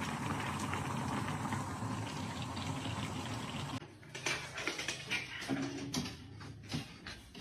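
Water running steadily, like a tap, which stops abruptly nearly four seconds in. Scattered knocks and clicks follow.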